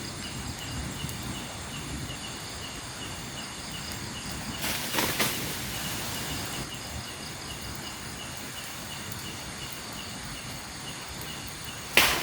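Night-time forest ambience: an insect chirps steadily at an even pulse over a low background hiss. There is a brief rustling burst about five seconds in, and a sharp, loud knock near the end.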